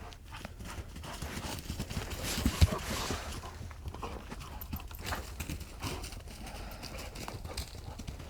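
Young dogs playing and running on the forest floor: irregular paw thuds and scuffing, with one sharp knock about two and a half seconds in.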